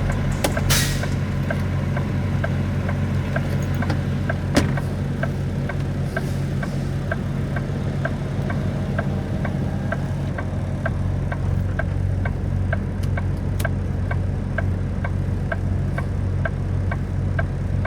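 Semi truck's diesel engine running steadily at low revs, heard from the cab, with a steady ticking about twice a second like an indicator flasher. A short hiss comes just under a second in and a sharp knock about four and a half seconds in.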